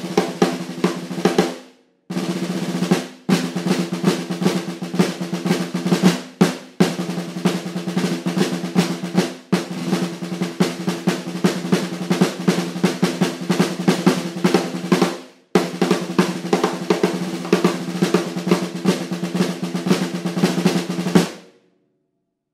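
Snare drum fitted with an Evans Level 360 HD Dry batter head, played in fast strokes and rolls as a sound test. It plays in several phrases with brief breaks and stops cleanly about a second before the end.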